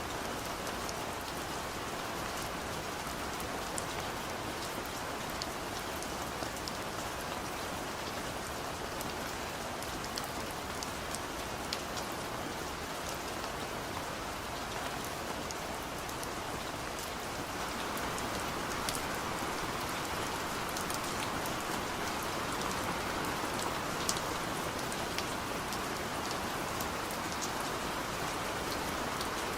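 Steady rain falling, with a dense patter of individual drops ticking on a surface; it grows a little louder about halfway through.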